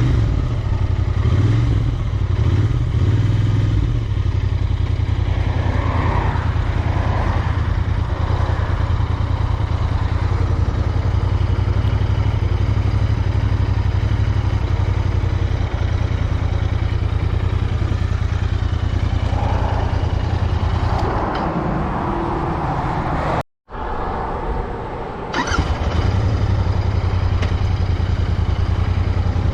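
Royal Enfield Interceptor 650's 648 cc parallel-twin engine running steadily under way. About two-thirds of the way through the engine note eases back, the sound cuts out for a split second, then the steady engine note returns.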